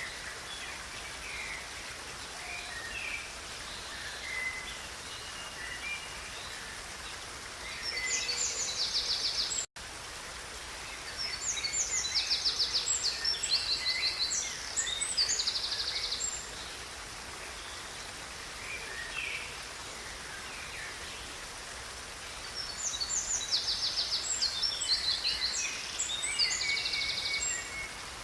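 Songbirds singing over the steady rush of a river. The song comes in three bouts of high, rapid trills and chirps, about 8 s in, from about 12 to 16 s, and from about 23 to 27 s, with scattered lower chirps between.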